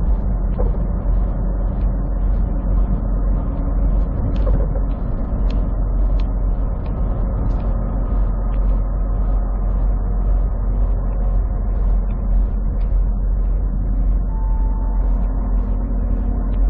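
Semi truck's diesel engine and road noise heard steadily inside the cab while driving, with a strong low rumble.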